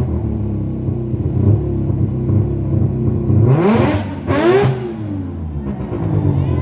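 Peripheral-ported Mazda 20B three-rotor rotary engine idling with a choppy, uneven lope, blipped twice in quick succession about three and a half seconds in, the revs rising and falling back to idle.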